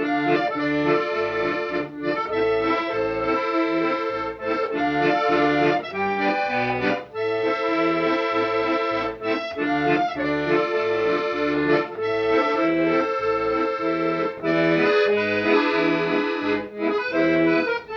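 Accordion music, a melody of held chords over a steady bass pulse.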